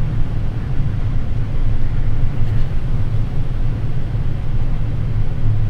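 Boeing 787 Dreamliner flight-deck noise on final approach with landing gear down and flaps extended: a steady low rumble with a hiss over it.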